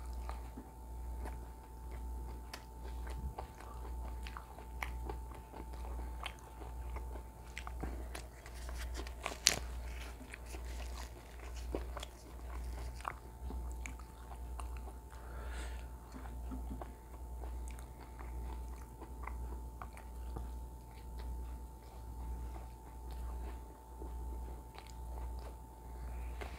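Close-up chewing and wet mouth sounds of a man eating naan and mutton kofta curry by hand, with many small lip smacks and clicks and one sharp click about nine and a half seconds in. Under it a steady low hum swells about once a second.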